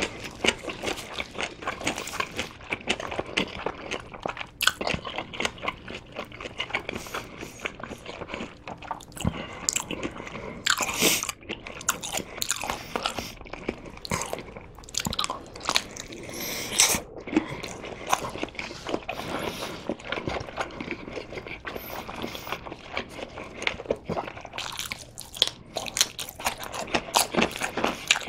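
Close-miked biting and chewing of Korean sundae (blood sausage): mouthfuls bitten off a whole sausage and chewed, with many small mouth clicks throughout and a few louder bites.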